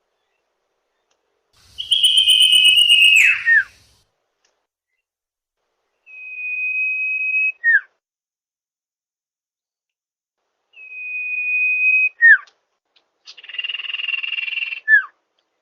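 Common iora (cipoh) song played as a bird lure: four phrases, each ending in a short falling note. Two are long, level, high whistles, and two are rasping, buzzy phrases.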